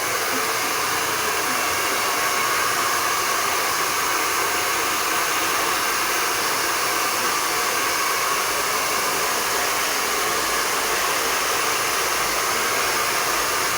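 Taiff Style 2000 W hair dryer running steadily: an even, unbroken rush of blown air and motor noise.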